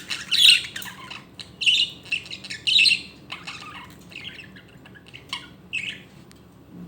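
Budgerigar squawking, a string of short harsh calls that are loudest over the first three seconds and then come more sparsely. The squawks read as the protest the bird makes when someone touches it.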